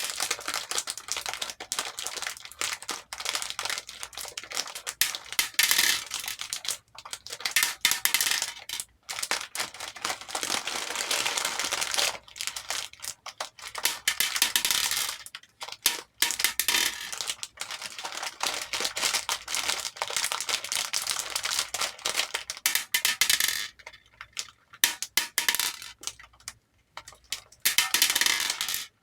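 Hair beads clattering and rattling in a bowl as they are poured and stirred, a dense run of small clicks that comes in stretches with short pauses between.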